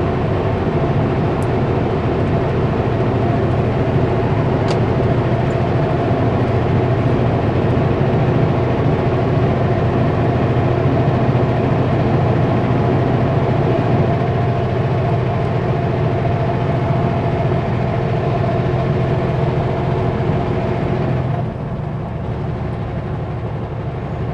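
Kenworth W900L semi truck's diesel engine running steadily under a heavy Super B load, its drone mixed with road noise. About 21 seconds in, the sound drops and gets a little quieter.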